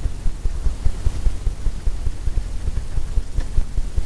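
Paintbrush worked rapidly back and forth on a canvas, heard as a fast, irregular low thumping.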